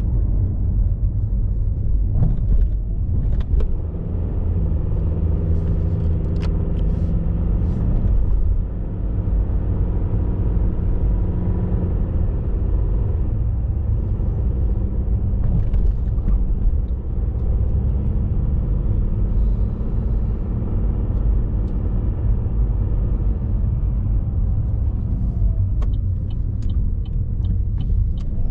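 Car driving: a steady low rumble of engine and road noise, with a faint engine note that steps up and down in pitch. A run of light ticks comes near the end.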